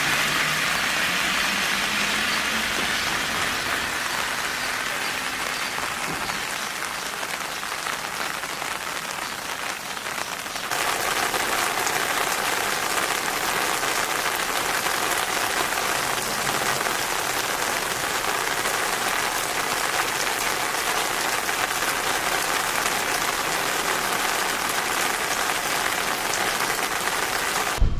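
Steady rain falling. About ten seconds in, the sound changes abruptly and becomes slightly louder and brighter.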